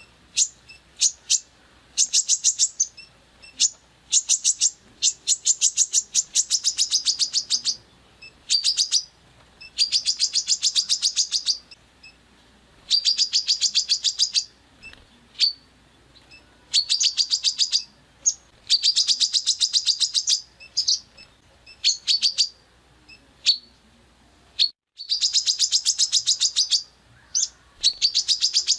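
Songbird giving harsh, rapid-fire 'tembakan' phrases: about a dozen bursts of very fast repeated sharp notes, each lasting one to two seconds, with single high chips in the gaps between.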